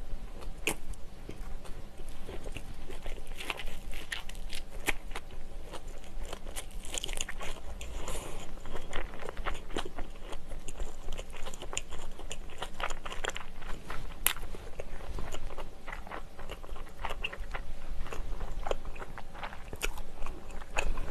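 Close-miked chewing and biting of a sausage-and-onion bread roll: many small, quick mouth clicks and crackles, with crunchy bites now and then.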